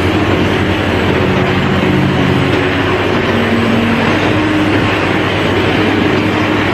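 A large engine or machine running steadily, with a loud, constant noise and a few low held tones that shift a little in pitch.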